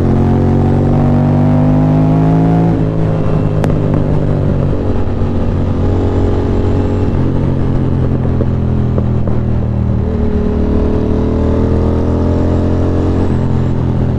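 Ducati Monster 620's air-cooled V-twin engine running on the move. The revs climb for the first few seconds, then drop, hold steady, and climb again before dropping off near the end.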